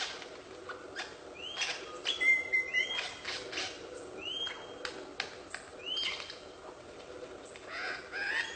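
A bird calling repeatedly: a short whistle that rises and then levels off, about every second and a half, once giving a held steady note. Sharp clicks come between the calls.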